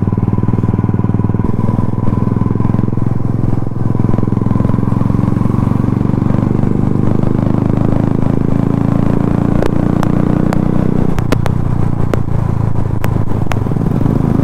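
Royal Enfield motorcycle engine running steadily at a cruise, heard from the rider's seat. A few sharp clicks come in the last few seconds.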